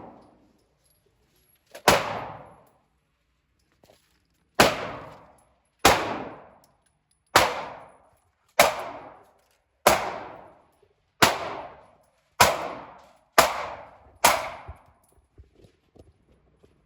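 Gunshots at a shooting range: ten single shots fired one after another at a steady, unhurried pace of roughly one a second, each a sharp crack with a ringing tail that fades out before the next.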